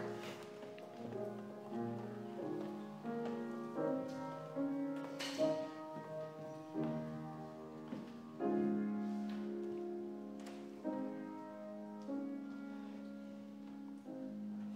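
Piano playing slow chords, some notes held for several seconds.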